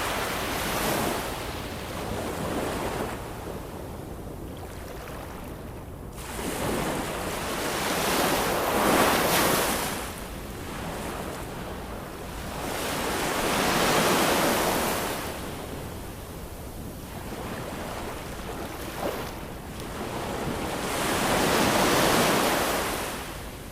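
Ocean surf: waves breaking and washing in, the hiss of the water swelling and falling away in slow surges about four times, every five to eight seconds.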